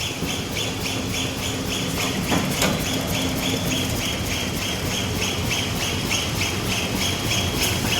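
Automatic plastic T-shirt bag making machine running, cycling in a fast, even rhythm over a steady low mechanical hum.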